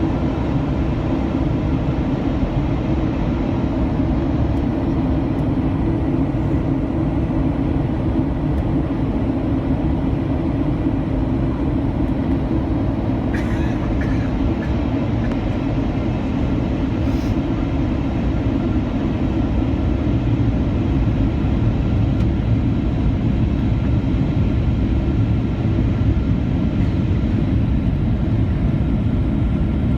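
Steady cabin noise of a Boeing 737-800 in flight on approach: the roar of its CFM56 engines and airflow, heaviest in the low range, with faint steady whines above it. There are two short sharp sounds about halfway through, and the roar grows slightly louder near the end.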